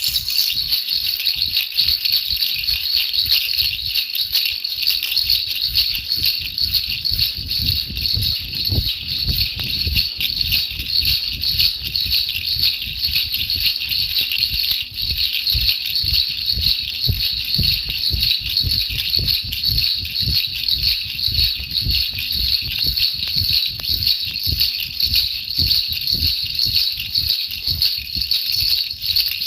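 A baby rattle shaken continuously and fast, a steady dense rattling used as soothing noise for a baby's sleep.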